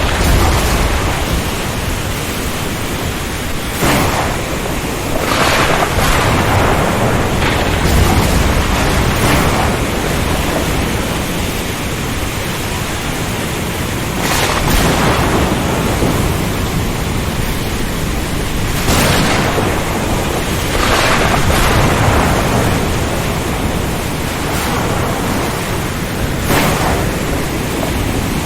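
Ocean storm: a steady, dense rush of rain, wind and surf, with sudden louder surges every few seconds.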